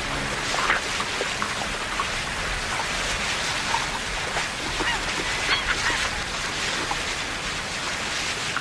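Steady rush of river water, with scattered short bird calls over it.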